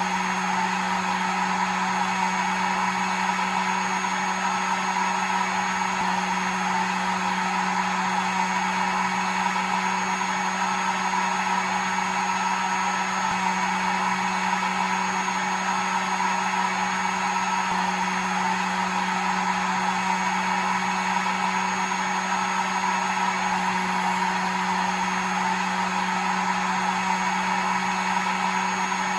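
Hair dryer running steadily: an even rush of blown air over a constant low motor hum, with no change in speed.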